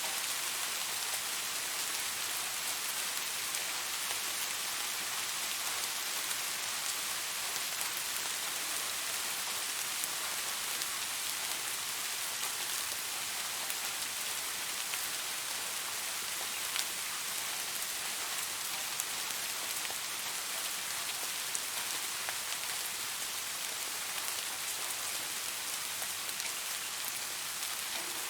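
Steady rain falling, an even hiss with now and then a single sharper drop tick close by.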